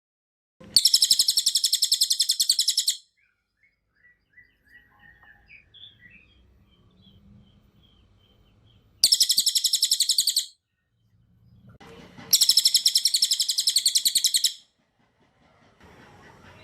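Cililin singing: three long bursts of very rapid, dense, high-pitched trilled notes, with fainter scattered chirps between the bursts.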